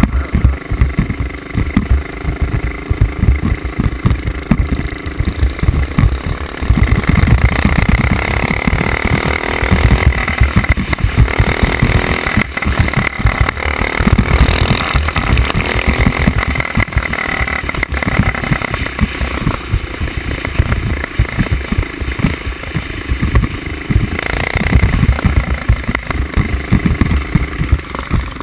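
Small single-cylinder mini bike engine running hard off-road, loud and rough, its revs rising and falling with the throttle.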